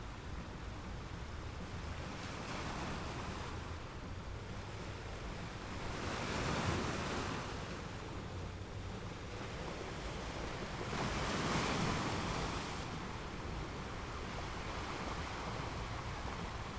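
Sea waves breaking and washing up a beach: a steady rush of surf, with two larger waves swelling in, about six and eleven seconds in.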